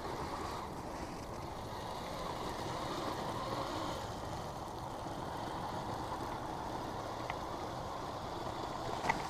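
Kyosho Blizzard RC tracked snowcat running over snow, a steady rushing noise, with one sharp click near the end.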